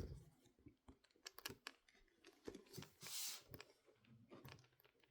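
Near silence with faint scattered clicks and taps and one short soft hiss about three seconds in: quiet eating sounds.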